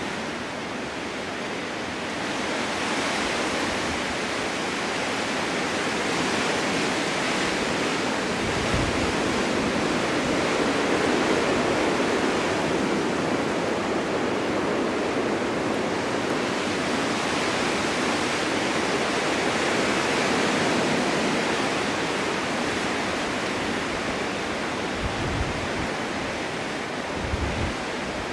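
Snowstorm wind blowing in gusts: a steady rushing hiss that slowly swells and eases, with a few low buffets on the microphone, mostly near the end.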